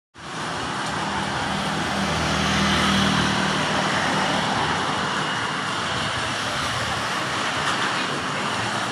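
Heavy rain and strong wind making a steady rushing noise, with a low hum in the first few seconds.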